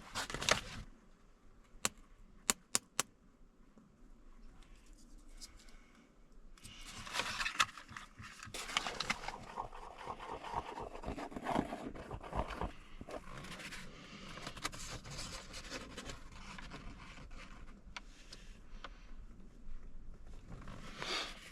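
Two-part epoxy glue being mixed and spread by hand: a few sharp clicks about two to three seconds in, then irregular scraping and scratching from about seven seconds in.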